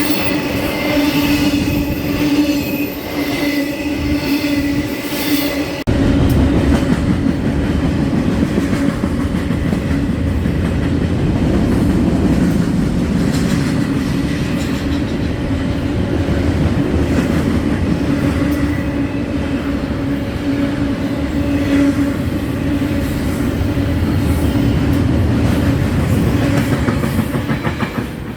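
Freight train passing close by, its cars rolling over the rails with a steady clickety-clack and a held humming tone. About six seconds in the sound turns abruptly heavier and lower.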